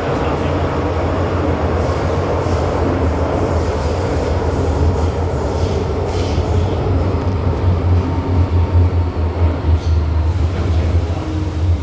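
MTR M-Train electric multiple unit running between stations, a steady loud low rumble of motors and wheels on the rails with a few faint sharp ticks.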